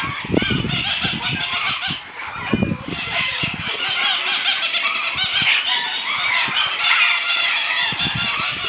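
A dense din of many birds calling at once, mostly parrots: short overlapping calls with no break. Low rumbles come about half a second and two and a half seconds in.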